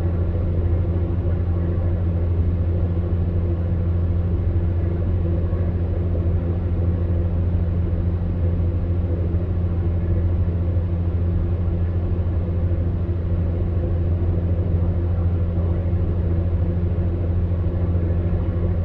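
Electric fan heater running steadily: an even, monotonous low hum from its motor over a constant rush of air from the fan.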